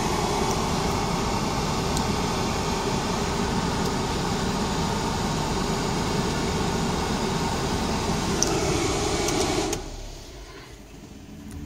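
Steady rushing noise inside a car cabin, dropping off sharply about ten seconds in.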